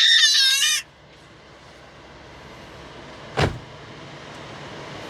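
A child's high-pitched scream that stops abruptly under a second in, followed by steady road noise inside a moving car, with one short thump about three and a half seconds in.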